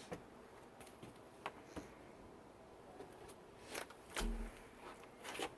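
Faint handling noise: scattered light clicks and rustles, with one low muffled bump about four seconds in.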